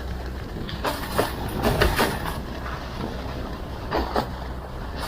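Fishing boat's engine running with a steady low drone, broken by several sharp knocks and splashes as waves hit the boat, the loudest about two seconds in.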